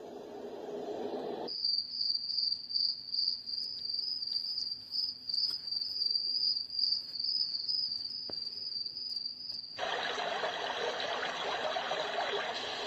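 Cricket sound track from a Dreamegg Pocket Sleep 1 mini white noise machine: a steady, pulsing high chirring. It cuts in about a second and a half in, replacing a low rushing noise track, and switches to a broader rushing noise near the end.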